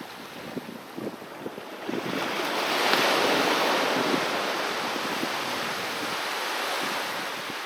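A sea wave breaks on the shore about two seconds in. Its rush of surf peaks and then slowly washes out and fades. Before it there are small splashes of water lapping.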